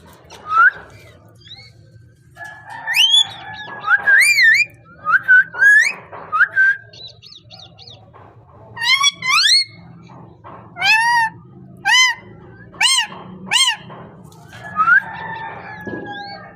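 Parrot whistling and calling: rising and falling whistled notes in the first half, then a run of short, arching calls repeated about once a second.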